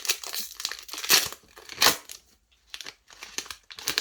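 Plastic wrapper of a trading-card booster pack crinkling and being torn open by hand, in several uneven rustling bursts, loudest about a second in and again just before two seconds.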